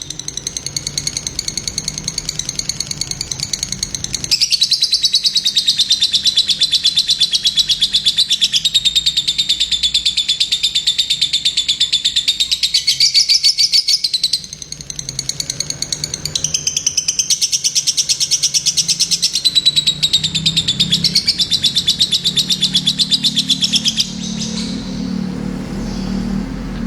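Lovebird singing a long, unbroken, fast chattering run of high chirps, many per second: the continuous 'gacor' song kept by contest birds. The song breaks off about 24 seconds in, giving way to a low rumbling noise.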